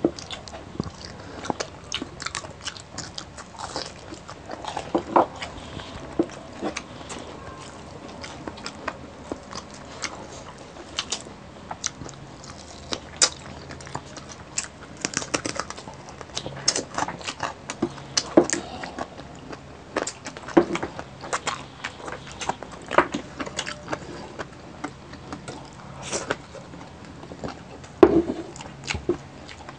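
Close-miked eating: biting and chewing crispy pata, deep-fried pork knuckle with crackling skin, giving irregular sharp crunches.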